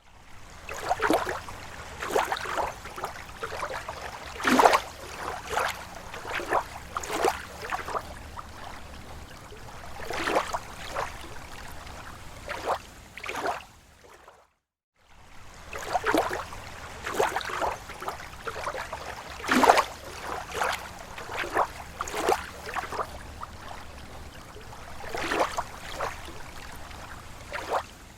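Small waves lapping against a lake shore: irregular slaps and splashes a second or two apart over a soft wash of water. The sound cuts out briefly about halfway through and then starts over, the same stretch of recording looped.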